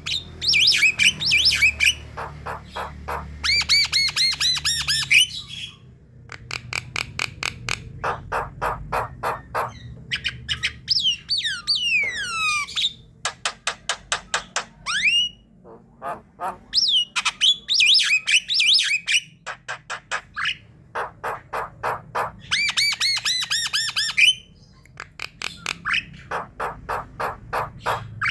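Several Javan mynas calling: harsh squawks and whistled notes that glide up and down in pitch, alternating with runs of short, evenly spaced chattering notes at about three a second.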